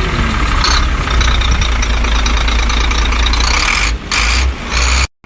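Heavy truck engine running with a strong, steady low rumble and noise, briefly dropping away about four seconds in and cutting off to silence just before the end.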